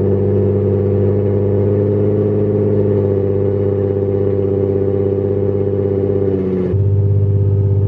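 Nissan 350Z's 3.5-litre V6 running at a steady, raised idle just after a cold start. Near the end the note drops abruptly to a deeper, slightly louder drone.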